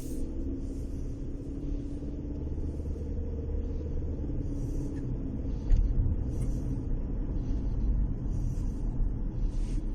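Chery Tiggo 4 crossover with a CVT running, a steady low rumble with a faint steady tone over the first few seconds. There is a single bump about six seconds in.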